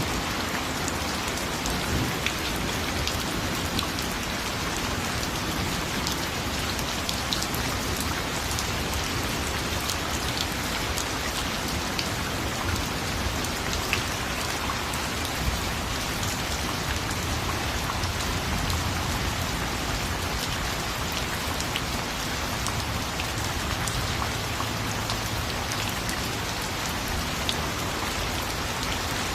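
Steady rain, an even rushing hiss with scattered sharp ticks of individual drops striking a surface.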